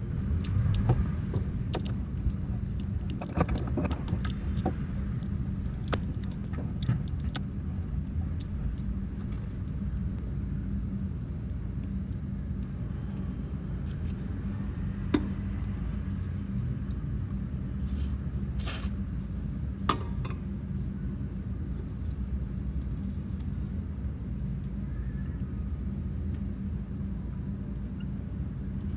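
Scattered metallic clinks, clicks and knocks of hand tools and clamps being handled during piano repair work, over a steady low hum. The clicks are densest in the first several seconds, with a few sharper knocks near the middle.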